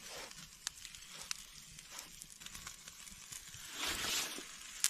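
Oiled lamb shank sizzling as it sears over an open campfire, with frequent small crackles. The sizzle swells briefly near the end, and one sharp crack comes just before it stops.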